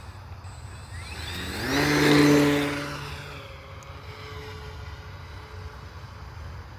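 HobbyZone Carbon Cub S2 model plane's brushless electric motor and propeller throttling up with a rising whine, loudest about two seconds in, then fading away as the plane pulls off.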